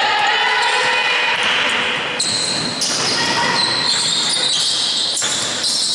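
Basketball game play on a gym floor: the ball bouncing, with many short, high-pitched squeaks from sneakers over it.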